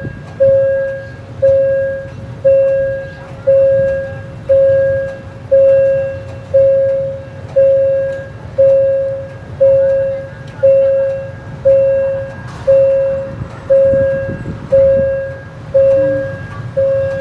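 Railway level-crossing warning bell ringing steadily, about one ding a second, each ring fading before the next, warning that a train is approaching. A low engine or traffic rumble runs underneath.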